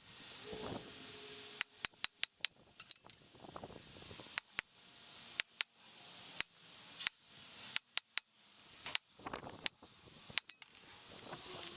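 Irregular sharp metallic clinks and taps, a couple of dozen of them at uneven intervals, from steel parts and hand tools.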